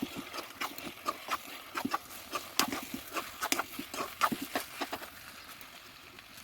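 An uneven run of sharp clicks and knocks, thinning out and going quieter for the last second or so.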